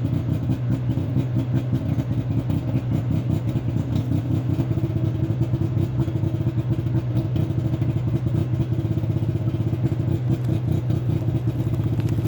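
Exhaust of a Suzuki Carry ST20's LJ50 two-stroke three-cylinder engine breathing through an aftermarket Nikaido expansion chamber, running steadily at an even speed with the engine warmed up.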